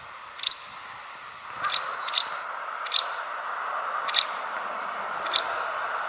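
White wagtail giving short, sharp high calls about once a second over a steady hiss that grows louder about a second and a half in.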